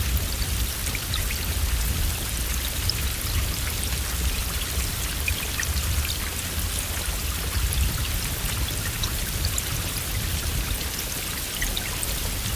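Steady heavy rain, with scattered drops ticking over a constant hiss and a low rumble underneath.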